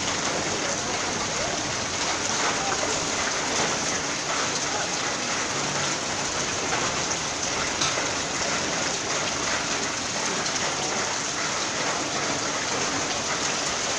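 Heavy rain falling steadily and spattering on hard surfaces.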